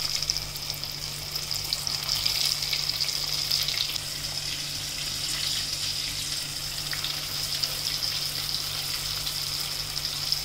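Flour-coated chicken pieces deep-frying in hot oil: a steady sizzle full of small pops, over a low steady hum.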